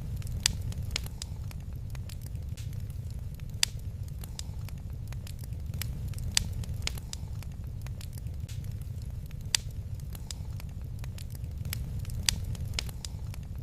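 Wood fire crackling in a fireplace: a steady low rumble of flames with scattered sharp pops and snaps, a few louder ones every few seconds.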